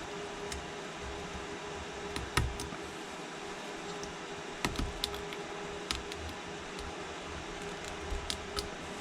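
Scattered small, sharp clicks and ticks of a metal blade chipping shattered back glass and adhesive off an iPhone XS Max's frame, at uneven intervals over a steady hiss with a faint hum. The loudest click comes about two and a half seconds in.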